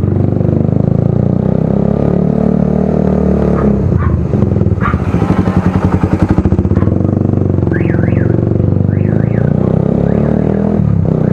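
Motorcycle with a loud, unsilenced aftermarket exhaust running and revving, with a burst of rapid exhaust pulsing near the middle. In the second half a car alarm goes off, a repeated rising-and-falling warble, set off by the noise of the exhaust.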